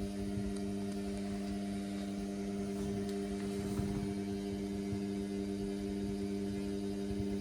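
Indesit washing machine running mid-cycle with a steady electric motor hum.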